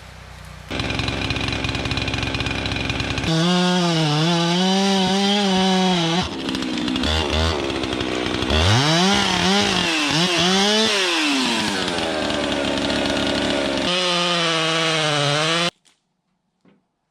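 Two-stroke chainsaw running loud, revving up and down with its pitch rising and falling, until it cuts off suddenly near the end.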